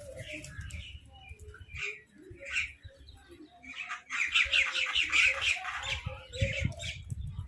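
Crows and a mynah calling: scattered single calls at first, then a burst of rapid, harsh chattering calls about halfway through.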